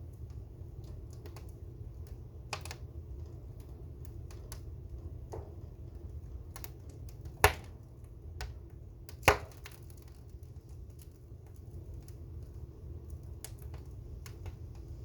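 Wood fire crackling, with scattered sharp pops; the two loudest come about halfway through, a couple of seconds apart, over a low steady rumble.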